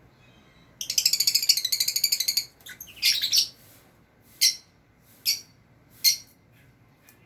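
Lovebirds calling: a fast run of high chirps, about ten a second for a second and a half, then a harsher squawk, then three short shrill calls about a second apart.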